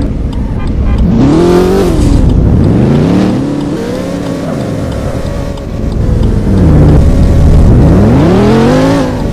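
Loud car engine being revved, its pitch climbing and dropping back about four times.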